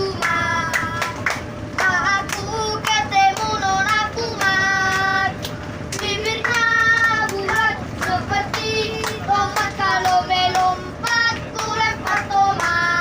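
Children singing a song, with hand claps along with it.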